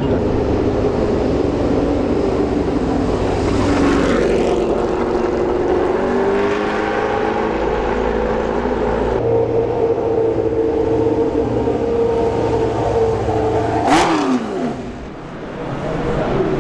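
Historic Formula 1 racing car engines running at high revs. Near the end one car passes close with a quick drop in pitch, and the sound fades briefly after it.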